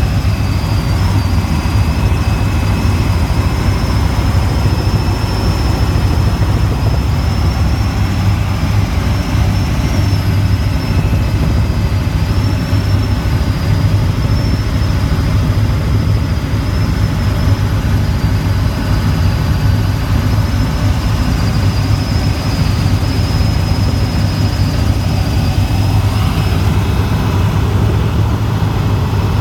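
Helicopter in flight: a loud, steady low drone of rotor and engines with a thin, high turbine whine above it.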